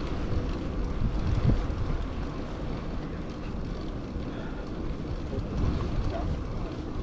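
Wind buffeting the microphone of a camera carried on a moving bicycle, a gusty low rumble over steady rushing noise, stronger in the first two seconds.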